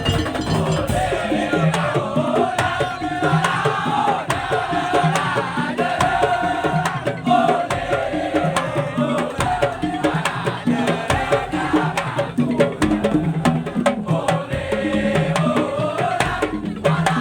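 Madurese tong-tong (daul) ensemble playing: wooden slit drums and drums beat a steady rhythm under a wavering melody line.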